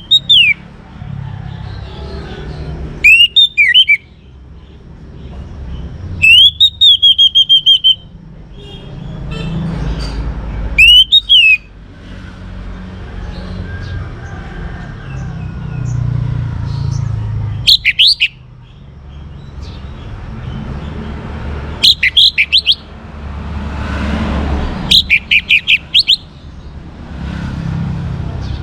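Orange-headed thrush singing loud, short phrases of sweeping whistled notes, one every few seconds, about eight in all. A low rumble runs underneath.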